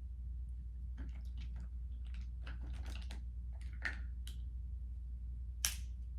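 Close-miked eating sounds: crunching, chewing and clicking as crab is eaten, with one sharper crack near the end, over a steady low hum.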